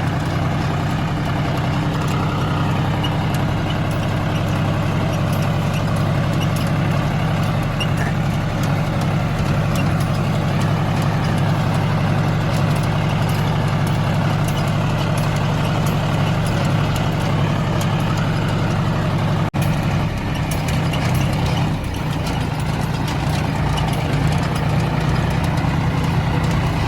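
Diesel engine of harvesting machinery running steadily, a loud continuous low drone, with a momentary break about two-thirds of the way through.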